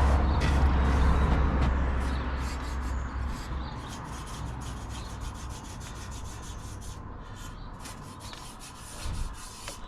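Brush sweeping scaffold boards: scratchy strokes, loudest at first and growing fainter after the first few seconds.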